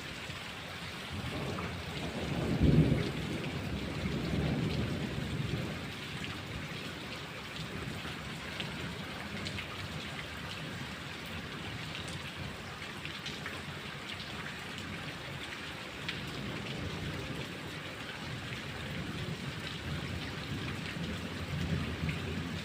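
Thunderstorm: steady rain falling, with a close thunderclap about three seconds in that rumbles on for a couple of seconds, and a fainter rumble of thunder near the end.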